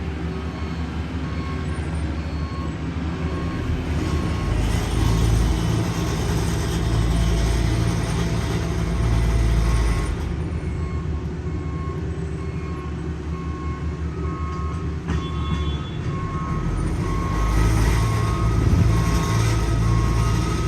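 Heavy road-paving equipment engines running, working harder for several seconds about a quarter of the way in and again near the end. A backup alarm beeps repeatedly, mostly through the second half.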